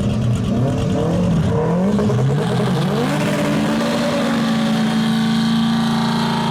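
Street race cars accelerating hard at full throttle, the engine pitch climbing and falling back at gear changes, then holding steady high.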